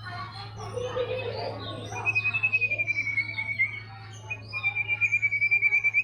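White-rumped shama singing: varied notes at first, then rapid trills of repeated notes held at one high pitch, about eight a second, in two runs with a short break in the middle. A steady low hum runs underneath.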